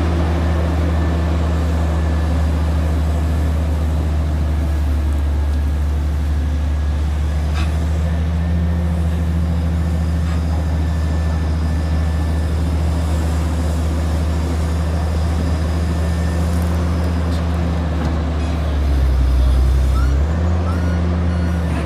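Heavy diesel engine running steadily at a low drone; its note drops and swells briefly near the end, and a reversing alarm starts beeping in short repeated tones.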